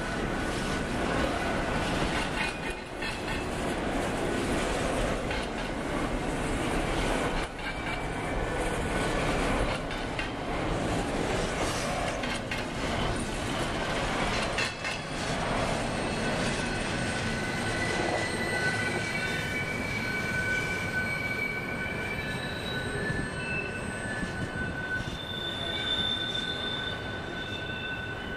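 Double-stack intermodal freight train rolling past, its loaded well cars rumbling and clattering steadily over the rails. From about halfway on, the wheels squeal in several high, steady tones as they are forced around the curve.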